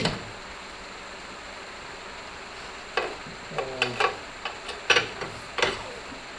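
Several sharp clicks and knocks from hand work on a tractor tire and tire changer, with a short squeak falling in pitch among them about three and a half seconds in, over a steady hiss.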